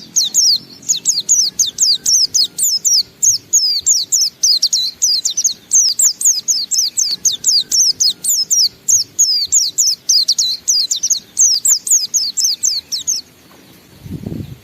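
White-eye (pleci) singing its long-breathed 'ngalas' song: a rapid, unbroken run of short, high, falling notes, several a second, that stops about a second before the end.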